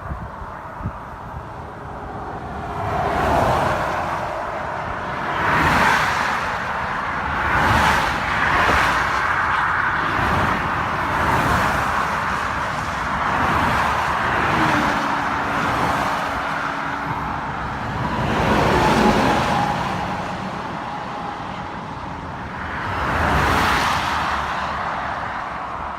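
Road traffic: a string of cars passing one after another, each swelling in a rush of tyre and engine noise and then fading, with a falling pitch as some go by.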